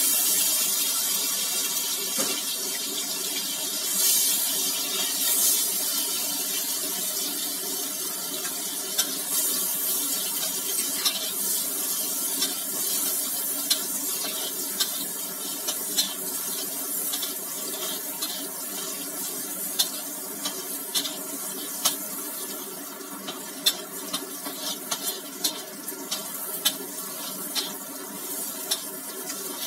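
Food sizzling in hot oil in a wok. A loud hiss starts suddenly as chillies and sliced ingredients go in, then settles into a steady sizzle. A metal spatula clicks and scrapes against the wok, more often in the second half.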